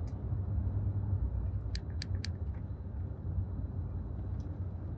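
Car driving at speed, heard from inside the cabin: a steady low road and engine rumble. About two seconds in, three quick sharp clicks.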